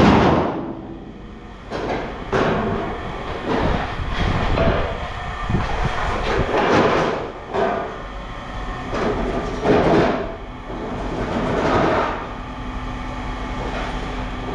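Scrap metal clanking and rattling as pieces are handled and dropped: a string of irregular metal impacts that ring briefly, over a faint steady low hum.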